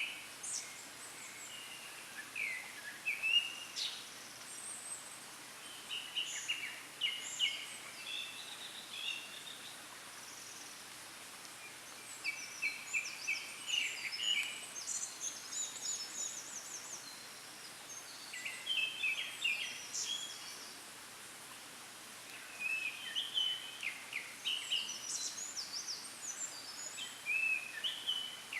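Japanese thrush singing: groups of short, varied whistled phrases, one group every few seconds with brief pauses between, over a faint steady background hiss.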